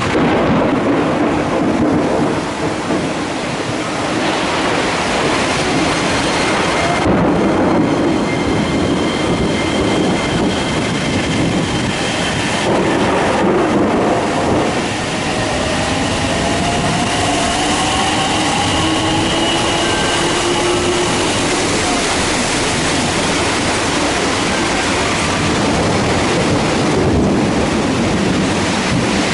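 Electric commuter train pulling out of the station in heavy rain: a steady wash of downpour, the train's motors giving a faint rising whine in the middle as it gathers speed, and wheels clattering over the rail joints.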